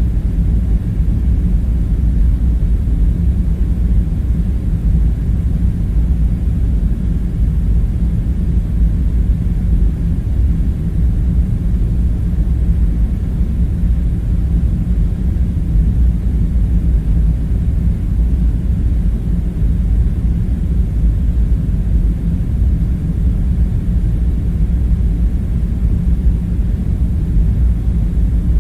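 Steady low rumble with a droning hum underneath, unchanging throughout and with no distinct events: a constant background ambience.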